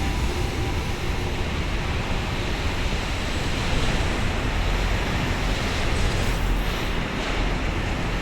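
Freight train pulling out behind an EH500 electric locomotive, its wagons rolling past in a steady, even rumble and rush.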